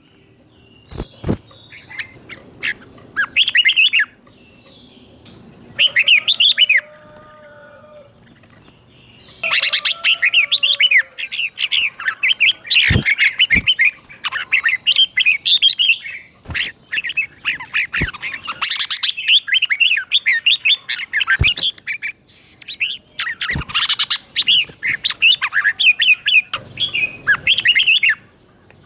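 Red-whiskered bulbul singing short, quick, warbling whistled phrases in bouts. The song comes in scattered phrases at first and is near-continuous from about ten seconds in. A few sharp clicks sound in between.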